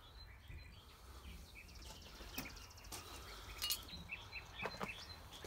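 Small songbirds chirping faintly in short, scattered notes, with a few light clicks.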